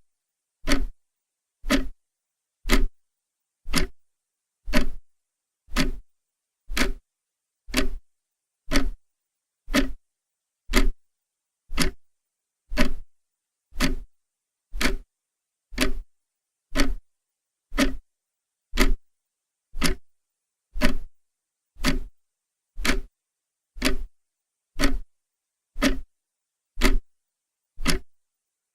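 Clock ticking steadily, one sharp tick each second, with dead silence between ticks.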